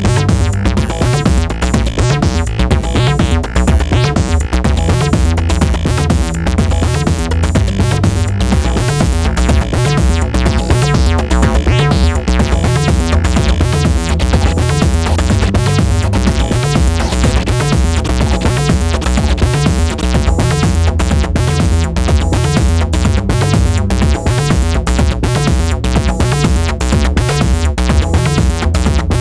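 Eurorack modular synthesizer jam in an acid style: a sequenced, filtered bassline from Make Noise DPO and XPO oscillators over steady electronic percussion, with a dense run of short percussive hits throughout.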